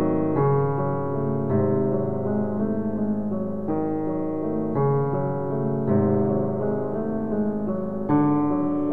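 Background piano music: slow, sustained chords changing about every second.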